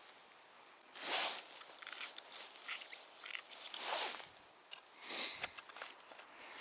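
A few crunching footsteps in snow, spaced unevenly, with small clicks and rustles between them.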